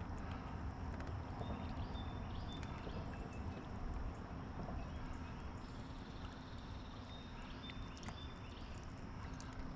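Steady rushing of river water with wind rumble on the microphone, broken by a few faint short high chirps.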